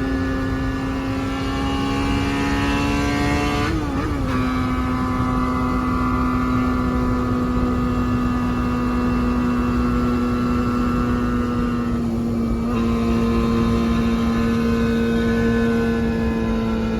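Honda Jade 250's inline-four engine running through an aftermarket 4-2-1 exhaust with twin left and right outlets, holding a steady note. There is a brief wobble and slight drop in pitch about four seconds in.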